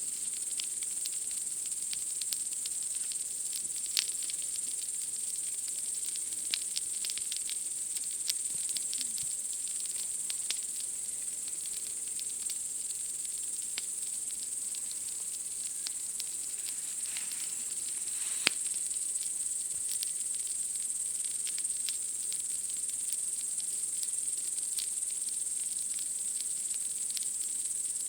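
A steady, high-pitched chorus of night insects chirring, with a campfire crackling and popping in irregular clicks over it. A few sharper pops stand out, notably about four seconds in and again at about eighteen seconds.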